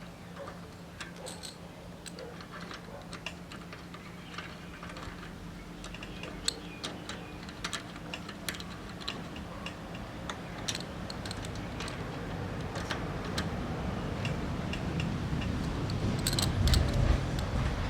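Irregular light metallic clicks and taps from tools and bicycle parts being handled, over a steady low hum. A low rumbling noise builds up toward the end.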